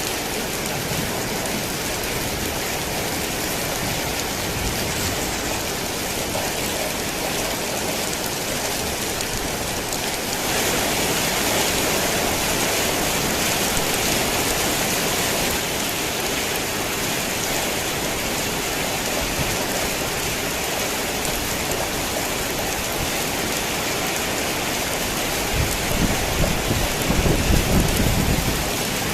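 Heavy rain falling steadily on a tin roof. It grows louder for about five seconds, starting about ten seconds in. Near the end comes a low rumble of thunder.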